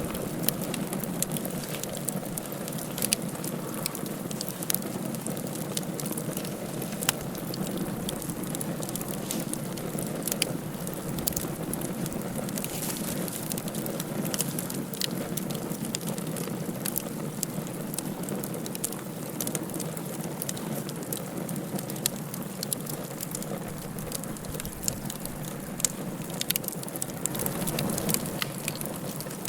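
Wood fire burning in a fireplace: frequent sharp crackles and pops over a steady low rushing of the flames.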